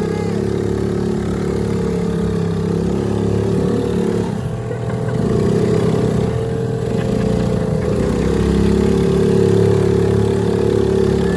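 Bumper boat's small engine running steadily, its note wavering and dipping for a few seconds mid-way before settling again.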